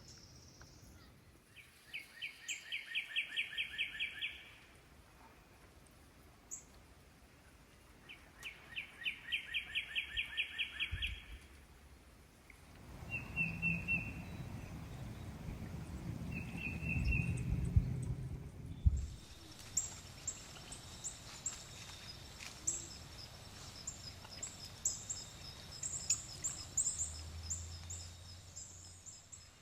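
Outdoor bird sounds: two rapid trills of repeated notes, then a stretch of low rushing noise with a few short high notes, and after an abrupt change about two-thirds through, a long run of short, high, repeated chirps.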